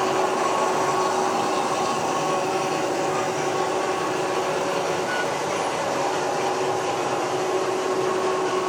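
H0-scale model trains running on the layout: a steady electric-motor whine over a continuous rolling rumble.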